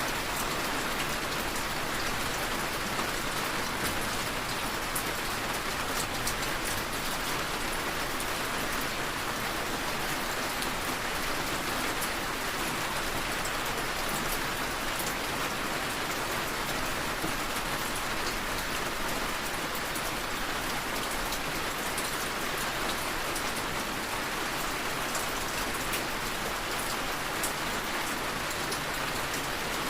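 Steady rain tapping on a window, an even hiss of rainfall with fine ticks of single drops.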